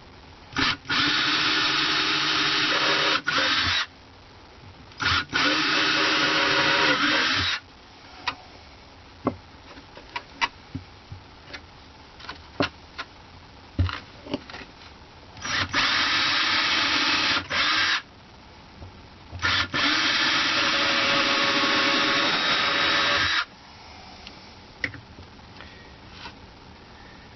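Power drill boring pilot holes into wood, running in four bursts of two to four seconds each, with small clicks and knocks between them.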